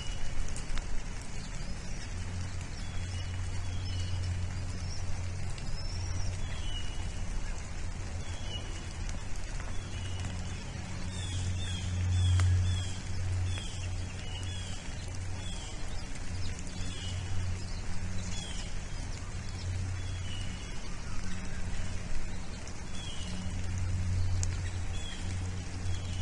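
Birds chirping: short, high, slightly falling chirps repeated every second or so, over a low hum that comes and goes.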